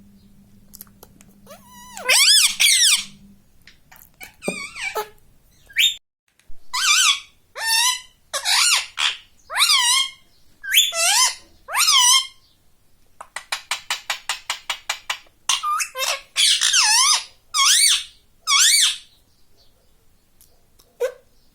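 Pet ring-necked parakeet squawking: a long series of loud, shrill calls, each about half a second, starting about two seconds in. Around the middle the calls give way for a couple of seconds to a fast run of short clicking chatter.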